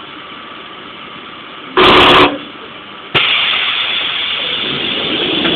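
A train's horn sounds one short loud blast about two seconds in. A second later a steady hiss of compressed air starts abruptly and carries on as the commuter train gets ready to pull out.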